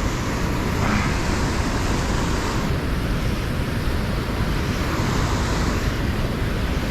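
Wind buffeting the microphone outdoors: a steady rushing noise with a heavy, fluttering low rumble.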